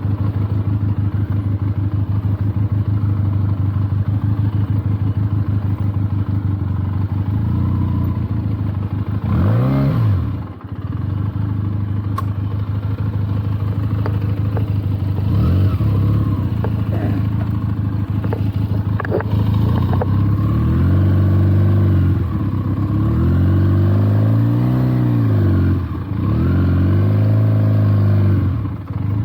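Benelli TNT 300's parallel-twin engine running steadily at low revs, then revved up and down in short blips, with several rising and falling swells of throttle in the second half.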